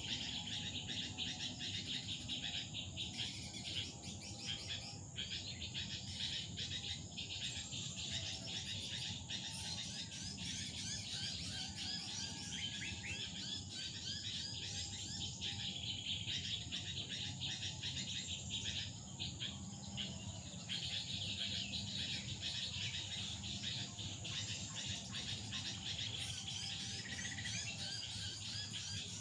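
Many small birds chirping and calling densely and without pause, over a steady high-pitched insect drone.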